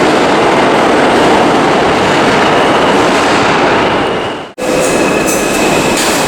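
Loud, steady running noise of a subway train. It fades out about four and a half seconds in, then comes back at once as train noise with a faint high squeal and light clicks.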